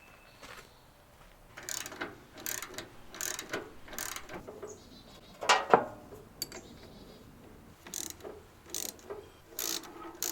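Hand tools working on a 1978 Cub Cadet 1000 garden tractor during clutch and driveshaft removal: a run of short strokes about every 0.7 s, one louder hit about halfway through, then more strokes near the end.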